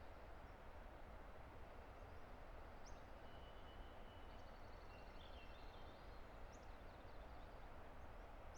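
Steady rush of a distant river, with faint songbird calls over it: a few short high chirps and a thin trill in the middle.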